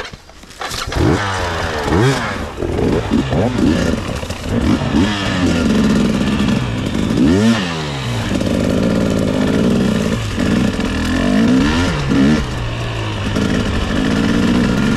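300cc two-stroke dirt bike engine being ridden, the revs rising and falling again and again as the throttle is worked, then holding steadier in the second half.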